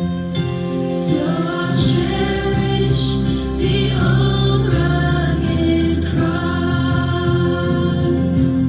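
A gospel hymn sung by voices with instrumental accompaniment, the notes held and moving from one to the next.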